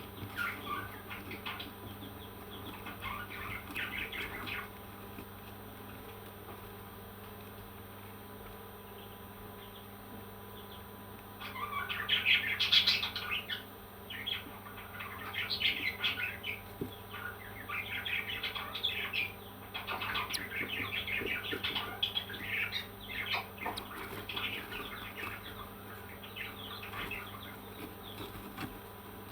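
Parrots chirping and chattering in bursts of short, high calls, with a quieter lull partway through and the loudest burst about twelve seconds in.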